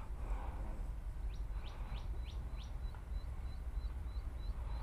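A bird calling: a quick run of five notes, each rising in pitch, then a string of short, faint high notes at about two or three a second. A low steady rumble lies underneath.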